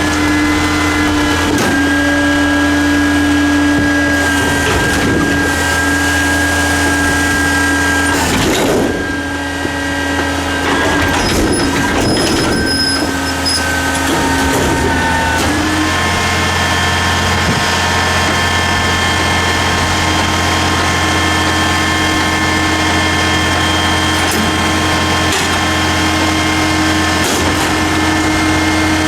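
Garbage truck's hydraulic pump whining steadily over the running engine, with a few sharp knocks in the middle. The whine changes pitch partway through and then holds steady again.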